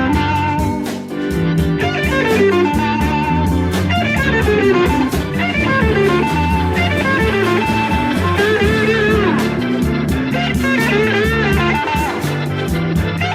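Electric blues guitar playing a lead line full of string bends and vibrato over a steady bass line.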